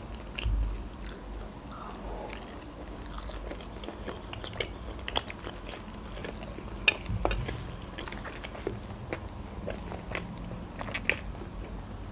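Close-miked chewing of a meat-filled manti dumpling, mouth closed, with many small wet clicks. Two low thuds come about half a second and about seven seconds in.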